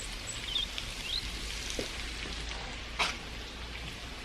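Steady rain falling, with scattered drops ticking and one sharper tick about three seconds in; a few faint bird chirps early on.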